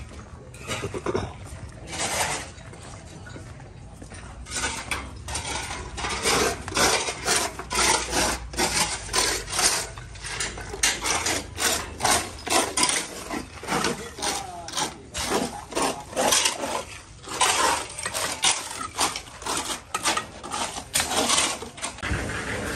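Repeated scraping or rasping strokes, about two a second, starting in earnest about five seconds in and going on until near the end.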